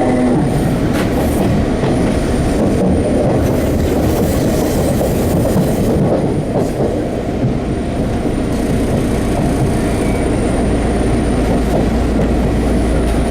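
Enshu Railway 30-series electric train running, heard from inside the car: a steady, dense rumble of wheels on rail.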